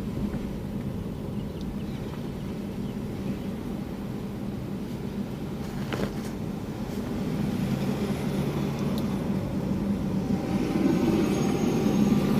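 Car driving, heard from inside the cabin: a steady low engine and road hum with one brief click about halfway through, growing louder over the last few seconds.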